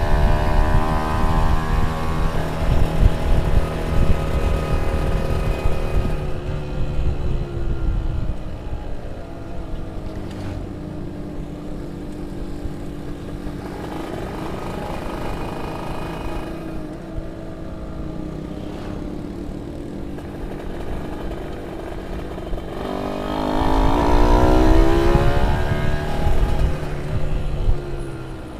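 A tuned two-stroke motorcycle engine of about 40 hp running and revving. It is loud at first and eases to a lower, steadier sound after several seconds, then swells again with a rise and fall in pitch near the end.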